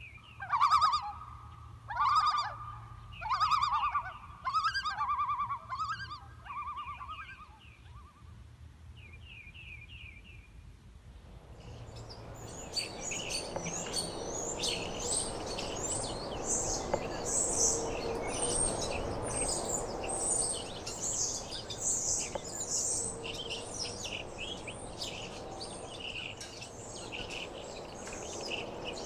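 Wild birds calling. First comes a run of loud, quavering calls about a second apart that dies away about seven seconds in. After a change there is a dense chorus of high chirps and trills over a steady hiss.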